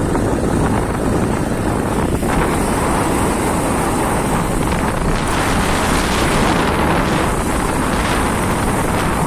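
Motorbike running steadily along a rough dirt road, with wind buffeting the phone's microphone.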